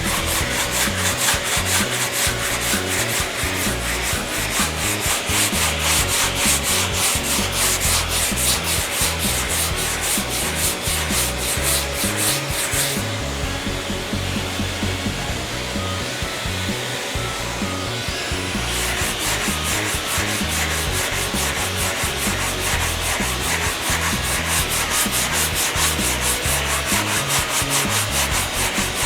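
Hand block sanding of body filler on a car fender with 80-grit paper, quick rhythmic back-and-forth strokes that are rough and scratchy. The strokes turn softer for about six seconds in the middle, then pick up again.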